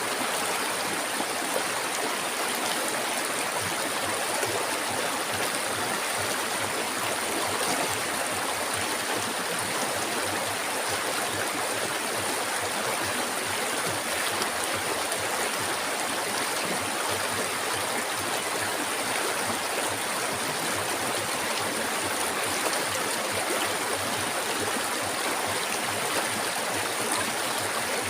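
River water flowing steadily, an even rushing and gurgling with no let-up.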